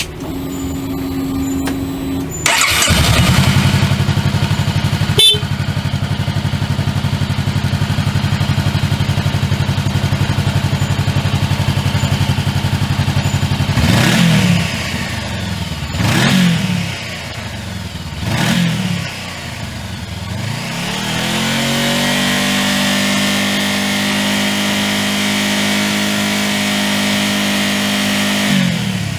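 Honda CBR400R's 399 cc parallel-twin engine started with the electric starter, catching about two seconds in and settling into a steady idle. Midway it is blipped three times, then held at steady higher revs for several seconds before dropping back near the end.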